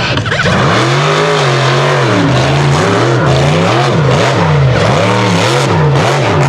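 Mega truck's big engine revving hard under racing throttle, its pitch rising and falling again and again, about once a second.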